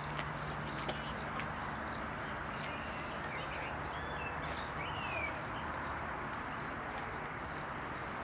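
Birds chirping over a steady background hiss: many short chirps and a few sliding whistles, with one longer falling whistle about five seconds in.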